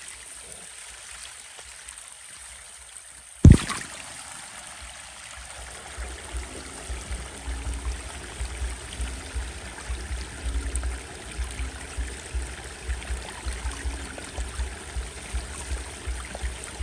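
Running water, a stream or trickle flowing steadily. There is one sharp knock about three and a half seconds in, and irregular low thumps from about six seconds on.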